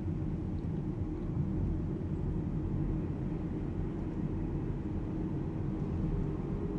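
Steady low road and tyre rumble of the all-electric Alpine A390 driving at city speed, with no engine note.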